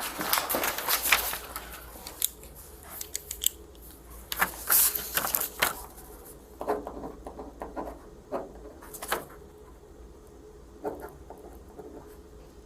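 Scattered light clicks, taps and rustles of small objects being handled, irregular and thinning out after the first few seconds, over a faint steady low hum.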